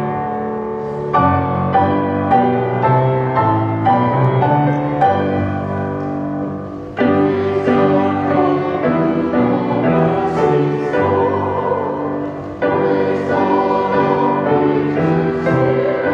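A church choir singing a hymn with piano accompaniment. The phrases come in suddenly and loudly about a second, seven seconds and thirteen seconds in.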